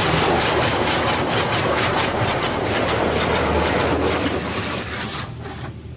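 Automatic car wash working over the car, heard from inside the cabin: a loud, rushing, fast-fluttering noise of water and machinery against the body that fades away about five seconds in.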